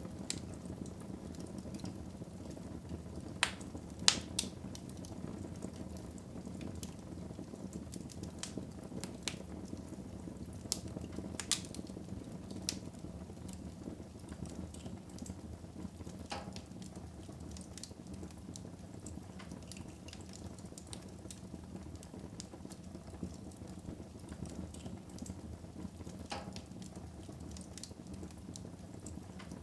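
Wood fire burning in a fireplace: a steady low rush of flames with scattered sharp crackles and pops, the loudest a few seconds in and again about eleven seconds in.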